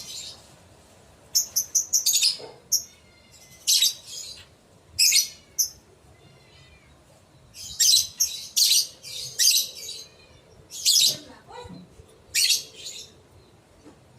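Lovebird calling in clusters of shrill, rapid chirps, with pauses of one to two seconds between the clusters.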